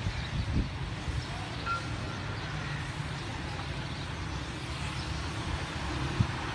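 Distant low rumble of an approaching ZCU-30 diesel-electric locomotive hauling a passenger train, steady and without a horn.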